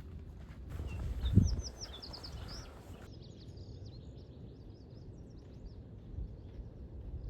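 Small birds chirping in a forest: a quick run of short high notes about a second in, then fainter scattered calls, over a steady low rumble. A single dull thump comes about a second and a half in.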